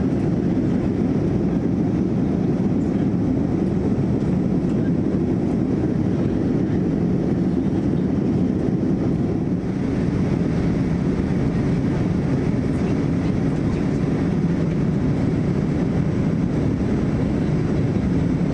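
Steady cabin noise inside a Boeing 787-9 in descent: a deep rush of airflow and engine sound. About ten seconds in it dips briefly and then carries a little more hiss.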